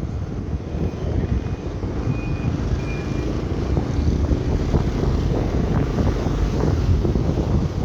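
Wind buffeting the microphone of a moving motorcycle, over the low rumble of the bike and road.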